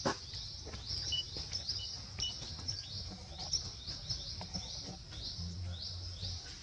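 Birds chirping: short high downward-sliding chirps about three times a second, with a few brief whistled pips in the first half, over a low outdoor rumble.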